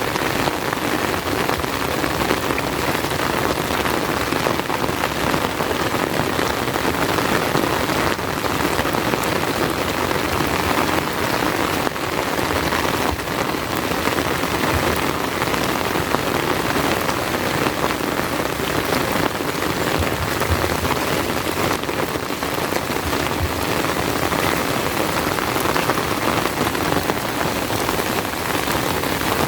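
Heavy rain falling steadily, a dense, even patter of drops with no letup.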